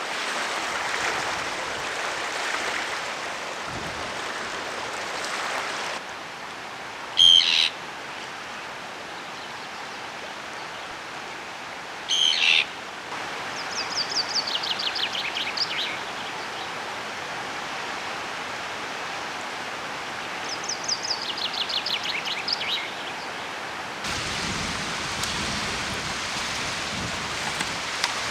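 Steady rain hiss, then a quieter stretch of songbirds: two short, loud calls about five seconds apart, then twice a quick run of notes falling in pitch, each lasting about two seconds. The rain hiss returns near the end.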